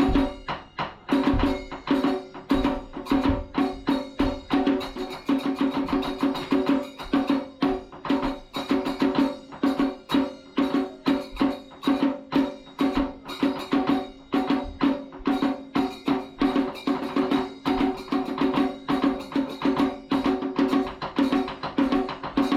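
Kagura accompaniment: drums and wood-block-like strokes beaten in a fast, steady rhythm over a held pitched tone.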